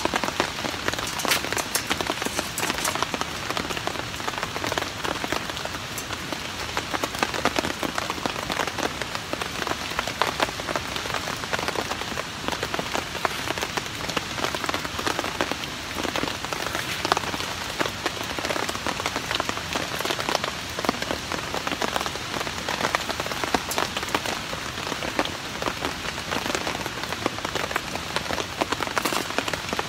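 Steady rain falling on a tarp shelter overhead, with many small drop clicks, mixed with the crackle of a wood fire burning in a Solo Stove Campfire.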